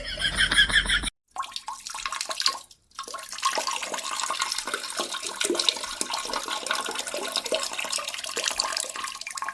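Water running or splashing, a steady rushing noise. About a second in, a short pitched sound cuts off abruptly before the water begins.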